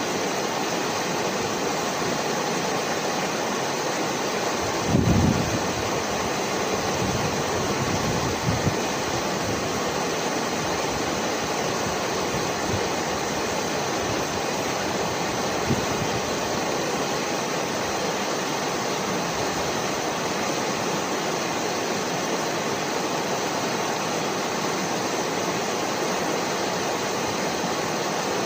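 Steady rushing noise, even and unbroken, with a few brief low thumps about five and eight seconds in and once more near sixteen seconds.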